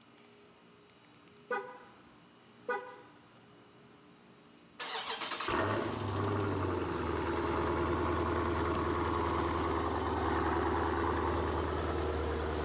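Two short car-horn chirps, then the 6.4-litre HEMI V8 of a Dodge Challenger 392 Scat Pack cranks and catches on a cold start. It settles into a loud, steady fast idle.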